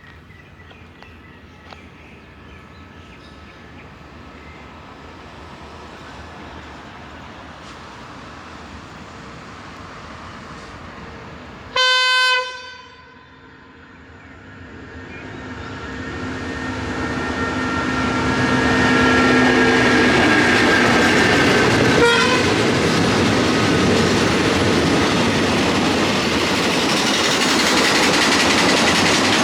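A State Railway of Thailand CDA5B1 diesel-electric locomotive, built by Qishuyan, gives one short horn blast about twelve seconds in. Its train then draws near, and the engine and wheel noise swells until it is loud and steady for the last ten seconds or so.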